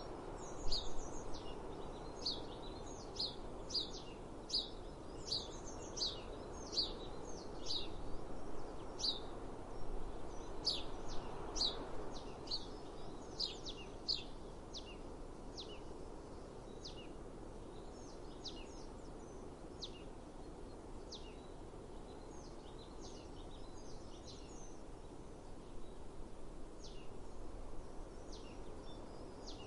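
Birds chirping: short high chirps about one or two a second, busy through the first half and sparser later, over a steady background of outdoor noise.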